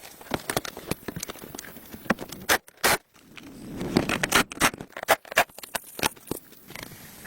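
Irregular light taps, clicks and scrapes, as of hands handling and working materials. There is a brief lull about three seconds in, and the clicks come thicker and louder after it.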